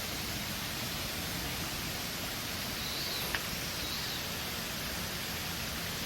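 Steady rushing hiss of running water, even throughout, with two faint, short high calls about three and four seconds in and a single small click between them.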